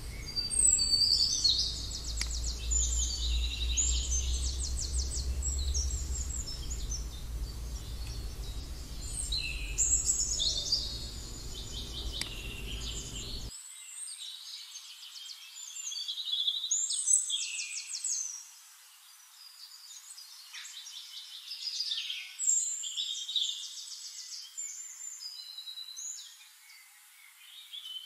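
Songbirds singing: a steady run of rapid high trills and chirps, one phrase after another. A low rumble underneath cuts off abruptly about halfway through.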